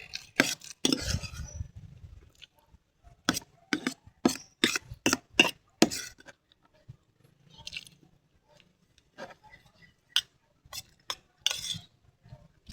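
Cutlery clinking and scraping against a plate while eating, in a run of sharp taps about two a second through the middle, with scattered taps and softer handling noise around them.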